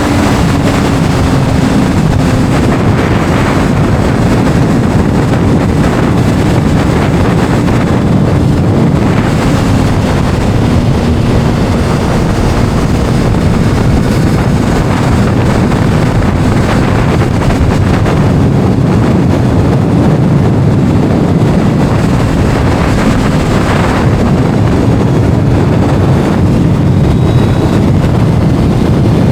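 Heavy wind noise on the microphone of a moving Kawasaki sport motorcycle, with its engine running underneath; the engine note dips slightly in pitch during the first few seconds.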